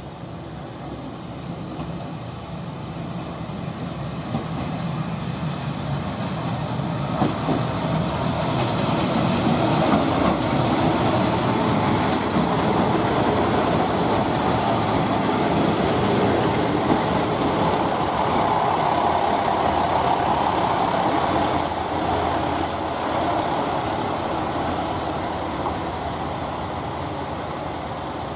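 A train running on the rails close by, its wheel and rail noise building over about ten seconds, holding, then slowly fading. A few brief high wheel squeals come in the second half.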